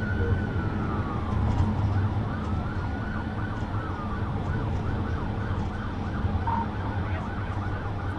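Police car siren wailing, its pitch rising and falling slowly, then switching to a fast yelp about halfway through, over the steady hum of the pursuing patrol car's engine and road noise.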